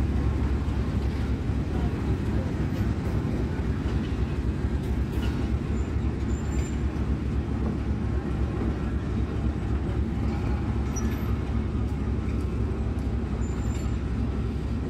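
RGE 20 diesel-electric locomotive running steadily with a deep, continuous rumble as it slowly hauls a rake of passenger coaches, their wheels rolling over the track.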